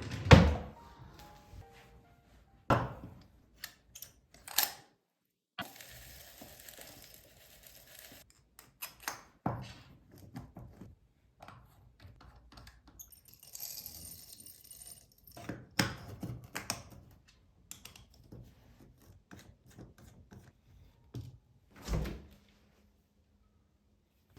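Household objects being handled and set down, giving irregular knocks and thunks, with two stretches of steady rustling noise in between, each about two seconds long.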